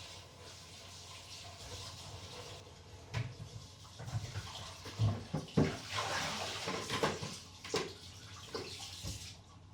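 Water running with irregular knocks and clatter of things being handled, loudest in the middle seconds.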